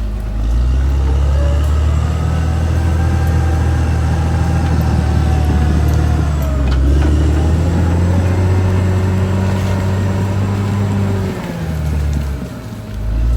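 Caterpillar D6R XL bulldozer's diesel engine running under load, its pitch rising and falling twice as the revs go up and down.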